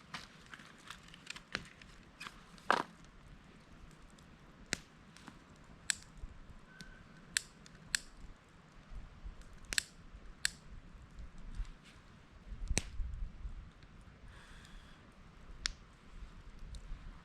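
Scattered, irregular sharp clicks and snaps, over a faint low rumble.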